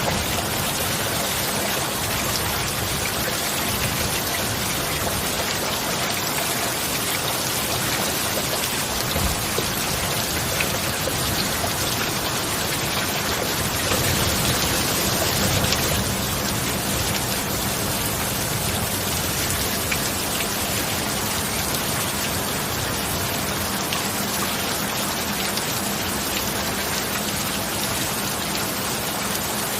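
Steady heavy rain falling, an even hiss of drops with no thunder, swelling slightly about halfway through.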